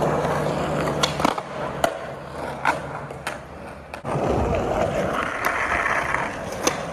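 Skateboard wheels rolling on pavement, with several sharp clacks of the board as the trick is popped and the board comes down. The rolling stops about a second in and starts again about four seconds in.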